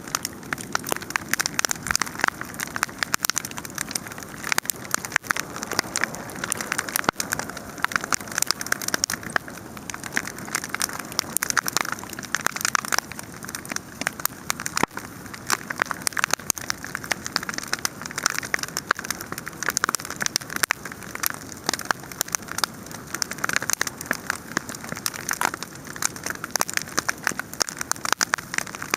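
Wood campfire burning with a dense, continuous crackle of many small pops.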